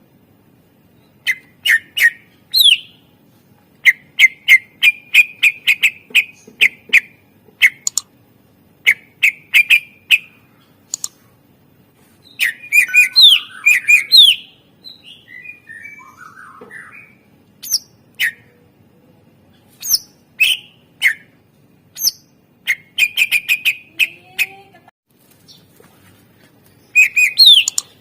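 Cucak ijo (green leafbird) singing loud bursts of rapid, sharp chirps and short trills, with brief pauses between bursts. The song is stuffed with 'isian', imitated calls of other birds.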